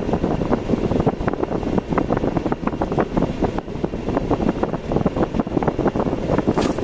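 Car driving along a road: steady rumbling road and engine noise with rough, fluttering wind buffeting.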